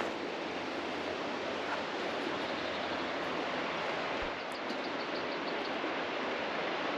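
Steady rushing of flowing stream water, an even hiss without pauses.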